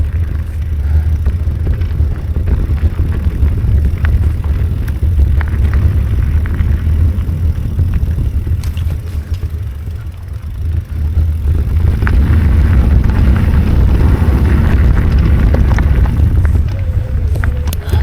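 Wind rumbling on the microphone over the rattle of a bicycle rolling along a dirt trail, with scattered clicks and knocks; the rumble gets louder about twelve seconds in.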